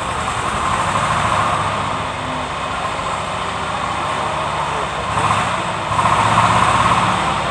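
Kubota D650 three-cylinder diesel engine running steadily, getting a little louder about six seconds in.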